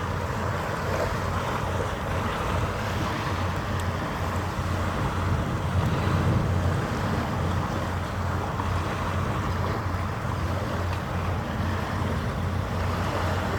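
Steady low hum of a large ship's machinery under a constant wash of wind and water noise.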